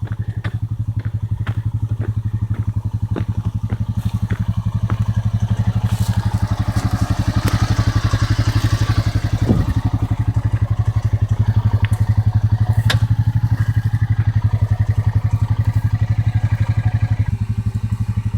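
Quad bike (ATV) engine running steadily at low revs, with a few sharp clicks and knocks at the start.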